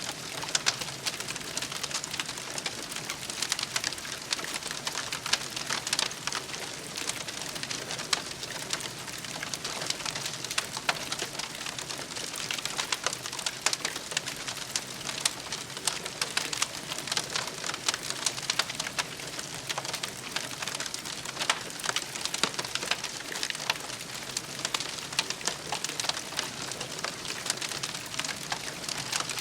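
Campfire burning, with a dense, irregular crackle and pop of burning wood over a steady hiss.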